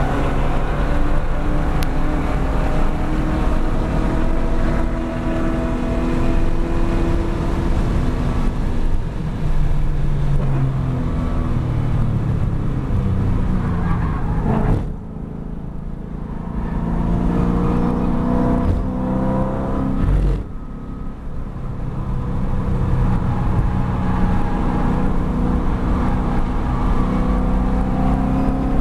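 2013 Chevrolet Camaro SS 1LE's 6.2-litre V8 at racing speed, heard from inside the cabin, its note sweeping up and down through the revs. About halfway through, and again some five seconds later, the engine sound drops away abruptly, then climbs back as the car accelerates.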